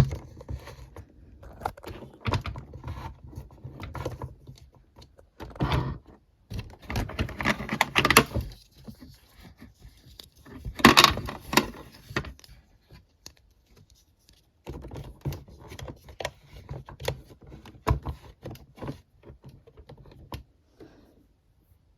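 Hard plastic toy pieces being handled, a run of clicks and rattles with louder bursts of clattering around 6, 8 and 11 seconds in.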